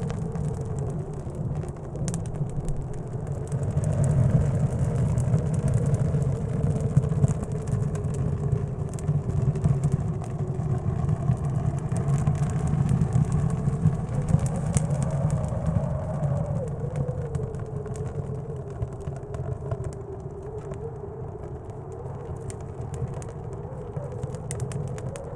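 Blizzard wind rumbling low with a wavering, howling whistle that rises and falls, mixed with the crackle and pops of a wood stove fire.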